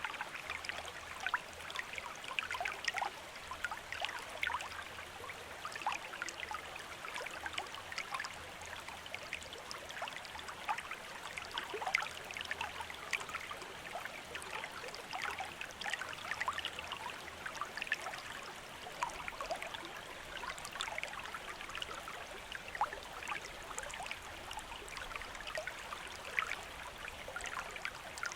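Running water of a stream: a steady babble with many small, quick splashes and gurgles.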